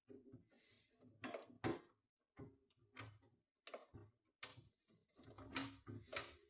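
Faint, irregular knocks and clatters, about two a second.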